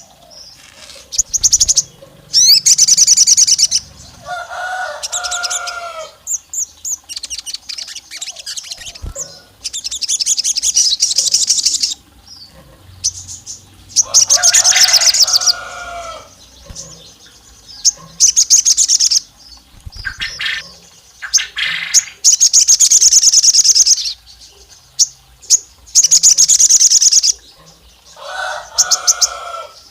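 Sogon songbird call recording: bursts of rapid, high, buzzy trills about a second or two long, repeated every couple of seconds, with a lower warbled phrase three times. The call is played as a lure, said to sound like a female calling a male.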